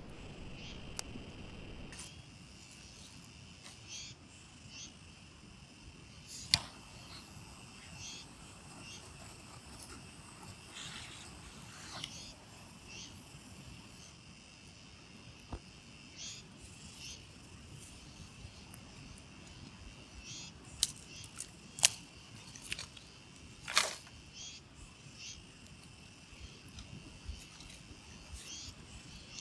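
Steady high-pitched insect chirring outdoors, with scattered sharp clicks and knocks, the loudest a handful about two-thirds of the way through.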